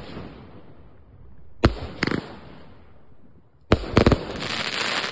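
A 25-shot firework barrage cake firing: a sharp bang about one and a half seconds in with two smaller ones just after, then a cluster of bangs near the end followed by a dense hiss.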